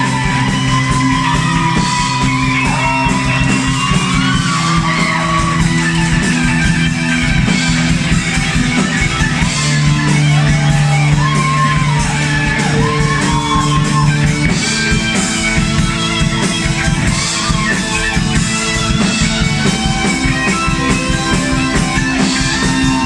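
Rock band playing an instrumental passage: a lead guitar line with bending notes over held low chords and drums with cymbals.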